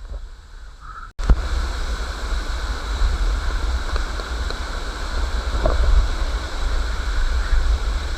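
Steady rush of falling water with low wind rumble on the microphone. It starts abruptly about a second in, after a quieter stretch.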